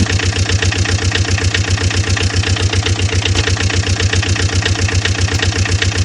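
An engine idling with an even, rapid chugging of about eight beats a second, cutting in abruptly at the start and holding steady.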